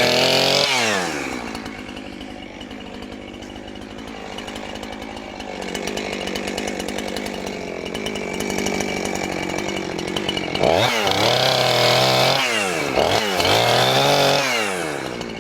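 Chainsaw engine revving: it drops from a high rev at the start, runs lower and steadier through the middle, then revs up and down about three times near the end.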